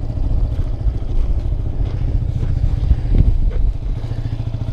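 Suzuki AX 100's two-stroke single-cylinder engine running steadily as the motorcycle is ridden.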